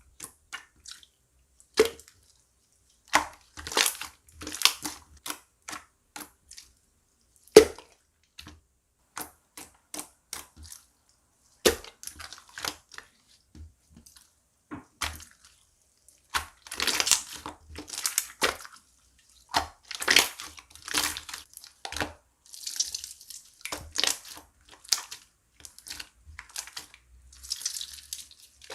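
Irregular clicks, knocks and crinkling rustles, sparse at first and coming thicker and busier in the second half.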